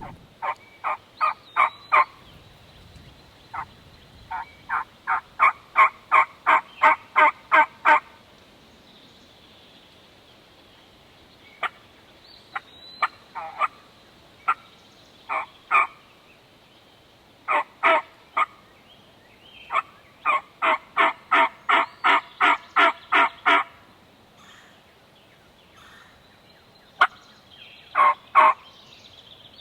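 Turkey yelping: runs of evenly spaced yelps, about three a second, five to fifteen notes to a run, with pauses between the runs.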